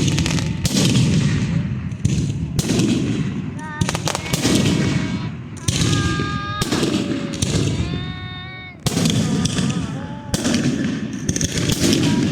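Fireworks going off in a rapid run of loud bangs, roughly one a second, each trailing off in a rumble. Between the bangs there are high pitched whistles or voices.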